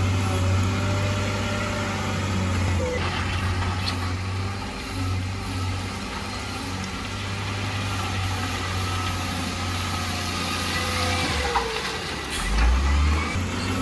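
Heavy diesel construction machinery running steadily with a deep engine hum, with a short swell of low rumble near the end.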